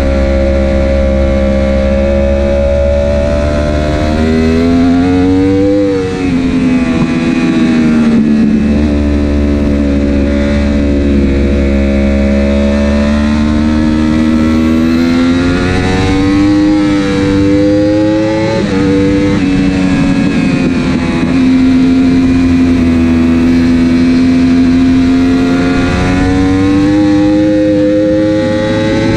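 Superbike engine heard onboard at racing speed, its pitch climbing under throttle and falling off into corners, with sharp drops in pitch at gear changes about six seconds in and again around nineteen seconds.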